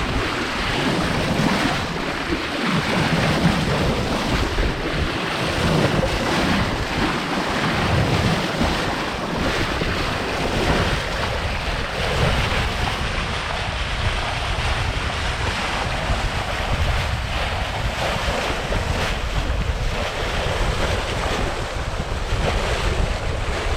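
Wind buffeting the microphone over the rush of water and waves along the hull of a sailing yacht moving fast through choppy sea; a steady, gusting noise with no engine.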